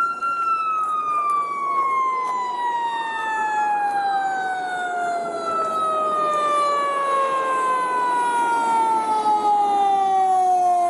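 An emergency vehicle's siren holds a high steady tone, then winds slowly down in pitch through several seconds as the vehicle arrives. A second siren wails faintly underneath, rising and falling.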